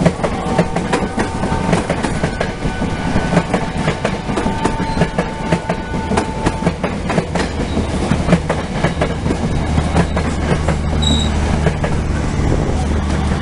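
Long-distance passenger train passing close by, its wheels clattering rapidly over the rail joints, with a few thin squeals and a low steady rumble building in the second half.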